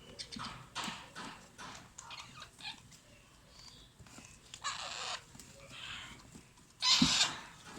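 Alexandrine parrot chicks giving raspy begging calls while being fed: a string of short harsh bursts, the loudest about seven seconds in.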